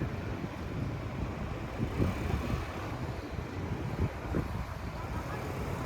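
Wind blowing across the microphone: a steady low rumble with irregular gusty buffets.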